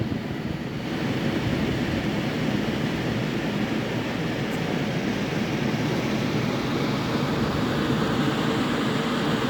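Air conditioner and heat unit running in cool mode, its compressor and fan giving a steady whirring hum.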